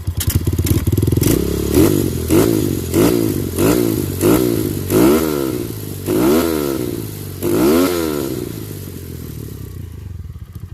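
Kawasaki KLX110 pit bike's small single-cylinder four-stroke engine breathing through a Yoshimura exhaust. It is blipped up and down in about nine quick revs, one every second or less, then settles back to a lower idle near the end.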